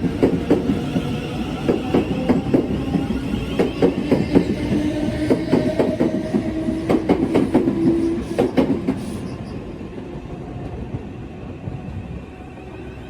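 A train running past on the line, wheels clicking rapidly over the rail joints with a tonal whine, then fading away about nine seconds in.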